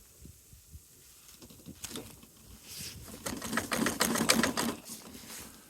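Boots crunching and wading through deep snow: a fast, dense crackling that starts about two and a half seconds in, peaks a second later and fades near the end.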